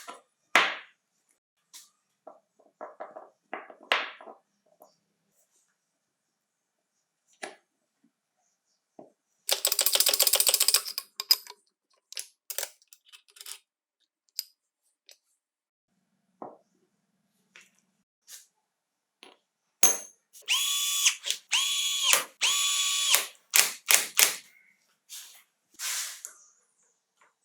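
Workshop tool sounds during reassembly: scattered clicks and knocks of metal parts and tools, a ratcheting run of rapid clicks about ten seconds in, and three short bursts of a small power-tool motor whining up, about twenty-one to twenty-three seconds in.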